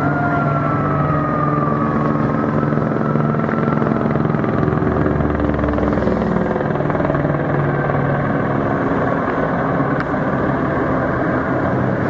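Steady engine and traffic noise: a low, droning hum that drifts slightly in pitch, with a falling whine right at the start.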